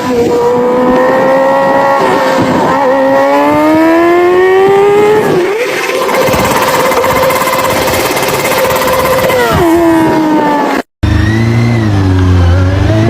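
Honda Hornet motorcycle engine with an Akrapovic aftermarket exhaust, revving: the pitch climbs, holds high for a few seconds, then drops. After a brief cut, it is heard again at lower revs, rising and falling.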